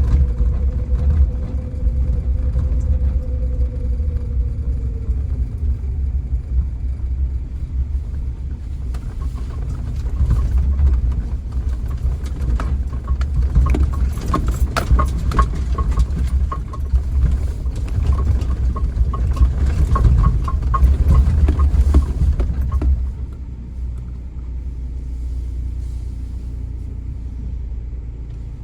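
Low, steady rumble of a car on the move. A stretch of rapid clicking and rattling runs through the middle, and the rumble eases near the end.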